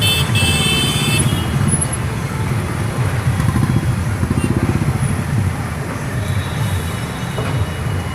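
Motorcycle engines running steadily as bikes ride past in a rally, a dense low rumble throughout.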